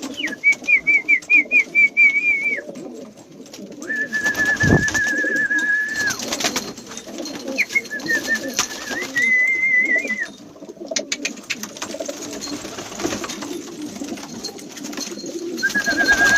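Domestic pigeons cooing in a loft, with several high warbling whistles of a second or two each breaking in at intervals.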